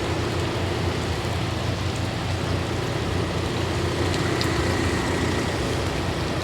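Heavy rain falling steadily, over the constant low hum of an engine idling.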